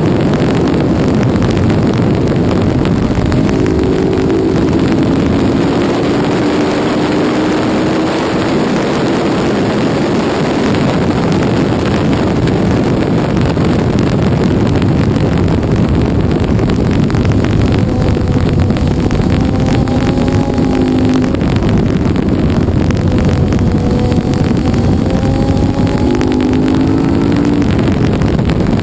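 2007 KTM 990 Super Duke's V-twin engine with an Akrapovič exhaust, run hard around a racetrack. Its pitch rises several times as it accelerates through the gears, under steady wind rush.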